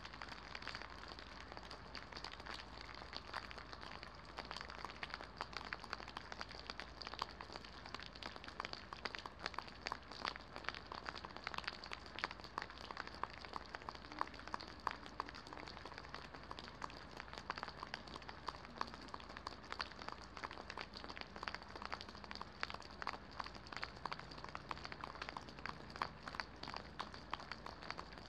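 Rain pattering steadily, with many small drops ticking irregularly on a nearby hard surface.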